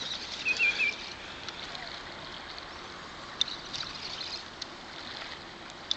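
Steady rush of flowing river water, with a brief high wavering squeal about half a second in and a few faint clicks.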